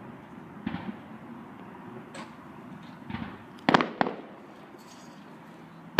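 Fireworks going off: a series of separate bangs, the loudest two in quick succession a little past halfway, over a low background rumble.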